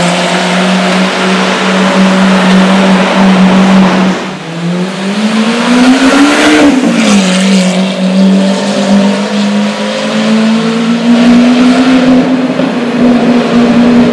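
Lamborghini Aventador SV's V12 engine running loud through a Powercraft exhaust, holding a steady note. It dips briefly about four seconds in, rises and falls once in a short rev around six seconds, then holds steady again with a slight rise near the end.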